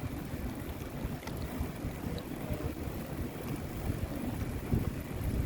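Wind buffeting the microphone of a moving bicycle rider, a steady low gusty rumble with a few faint ticks.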